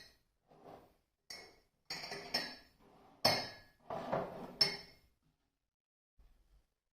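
Dishes and kitchenware clinking and knocking: a run of separate clinks, some louder than others, that stops about five seconds in.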